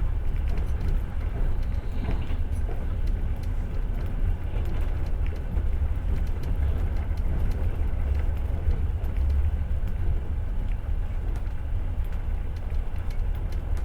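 Passenger train car running on the rails, heard from inside the carriage: a steady low rumble with faint scattered clicks.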